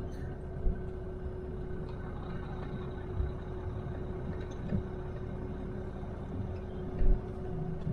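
Truck engine running steadily, heard from inside the cab, with a constant steady hum over it; two short low thumps come about a second in and near the end.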